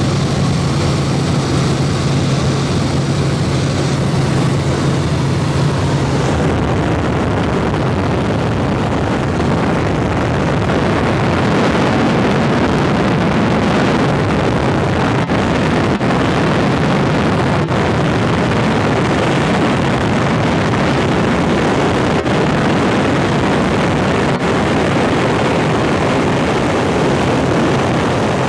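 Helicopter in flight: loud, steady engine and rotor noise as heard on board. A low steady hum over it drops away about six seconds in.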